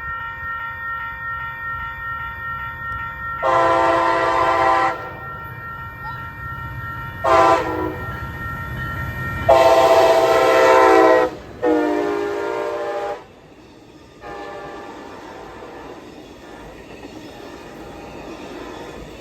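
An approaching train's locomotive air horn sounds four chord blasts (long, short, long, long) over the low rumble of the locomotive. From about 14 s in the train rolls past with a steady noise of wheels on rail.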